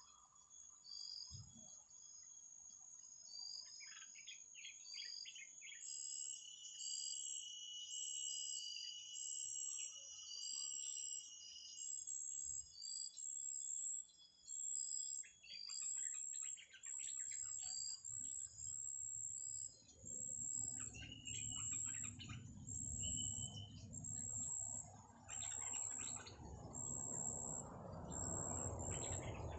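Small birds calling, with many short high chirps repeated at about two a second, clusters of quick notes and a held whistle-like note. A rough rushing noise builds up in the last third.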